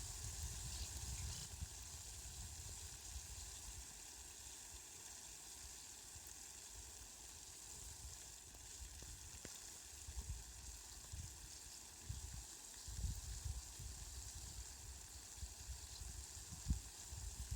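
Steady rain, an even fine hiss, with a low rumble that swells and fades several times, strongest a little past the middle and near the end.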